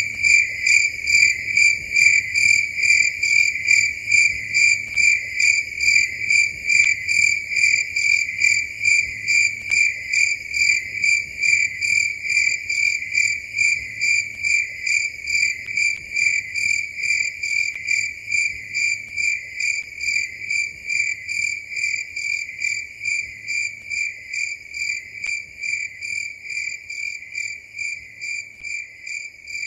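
A cricket chirping in an even, unbroken rhythm of about two chirps a second, each chirp a high, clear pulse, easing slightly quieter toward the end.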